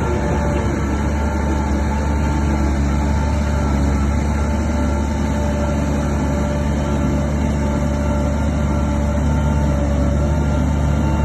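Heavy earthmoving machine's engine running steadily: a continuous low rumble with a steady whine on top.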